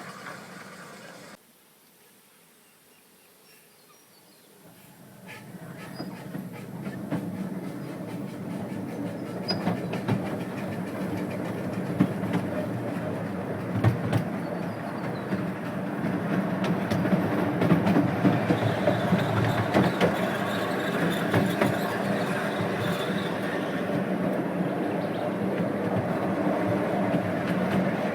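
Small 12-inch gauge steam locomotive and its train running on the track. After a quiet few seconds it comes closer and gets louder, then runs on steadily with a rumble and rapid clicking of wheels over the rail.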